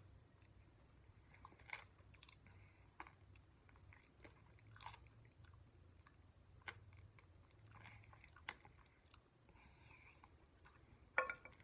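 Faint chewing and lip smacking as meat is pulled off a chicken wing bone with the teeth, with scattered short wet clicks and a slightly louder cluster near the end.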